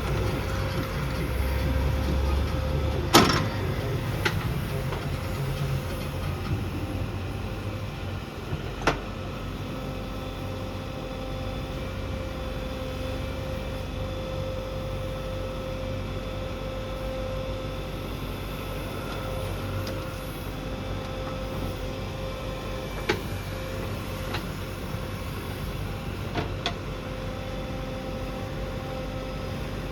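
JCB 3DX backhoe loader's diesel engine running steadily with a constant hum, broken by a few sharp metallic knocks, the loudest about three seconds in.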